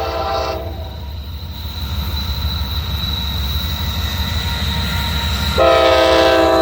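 Locomotive air horn on a CSX manifest freight train: a multi-note chord that cuts off about half a second in, then a second, louder blast starting near the end, over the steady low rumble of the train.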